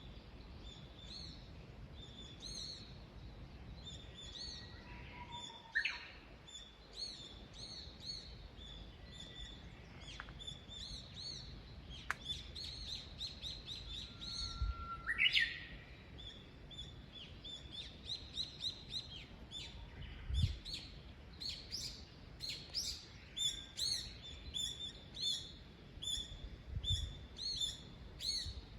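Small songbirds chirping and singing, a steady string of short high notes that grows busier in the second half, with a rising whistle about six seconds in and another near the middle.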